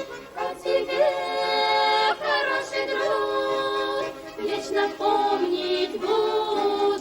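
A song: voices singing long held notes in harmony over musical accompaniment.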